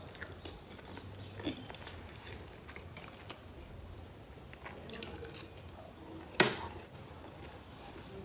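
Close-miked chewing of cheese and pineapple pizza, with small wet mouth clicks throughout and one louder sharp crunch a little past six seconds in.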